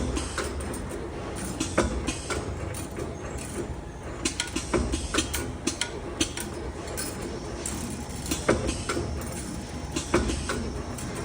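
CNC wire bending machine running, with irregular sharp clicks and clacks over a steady mechanical hum.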